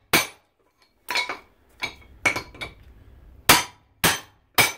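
Hammer blows on metal, about eight sharp strikes at an uneven pace, each with a short metallic ring, knocking parts off an aluminum plate.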